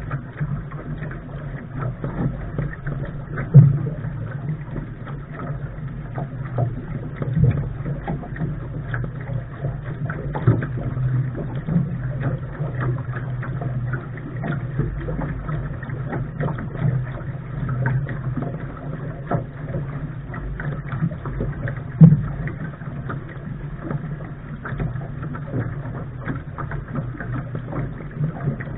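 Wind noise on the microphone and water rushing against the bow of a Lark sailing dinghy under way, with small clicks and a few sharp knocks, loudest about three and a half seconds in, about seven seconds in and about twenty-two seconds in.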